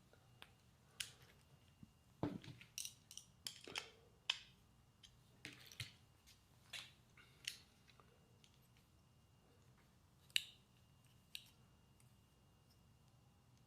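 Quiet, irregular clicks, snips and light taps of hand work on small snowblower parts, thickest in the first few seconds and with a sharper click about ten seconds in.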